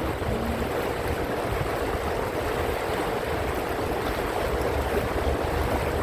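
Steady low rumble and rushing noise of a canal tour boat under way, the boat's running noise mixed with water.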